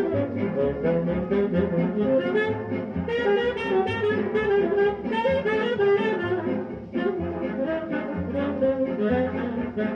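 1936 swing-band recording played from a 78 rpm record: saxophones and brass play together over a steady bass beat. The sound is narrow and dull, with nothing above the middle-high range, as on an old shellac disc.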